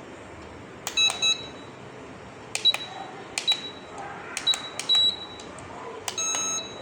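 Short, high electronic beeps, about ten in irregular groups, each starting with a click, then one longer beep near the end, from a toy RC jet airplane's remote-control transmitter.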